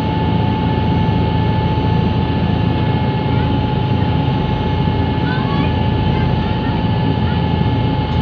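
River Class ferry's diesel engines running with a steady drone and a constant whine. A few faint short chirps come in the second half.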